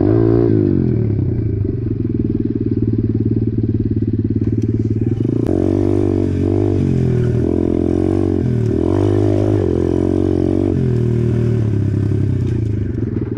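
Apollo RFZ 125cc pit bike's single-cylinder four-stroke engine running while ridden, its revs rising and falling with the throttle, with several quick rev swells in the second half.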